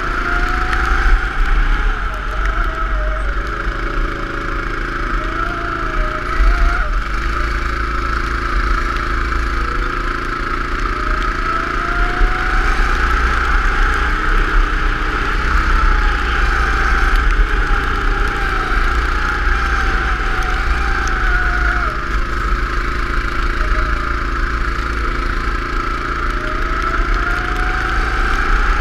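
Go-kart engine running, its pitch rising and falling again and again as it speeds up and slows down, over a steady hiss and a low rumble.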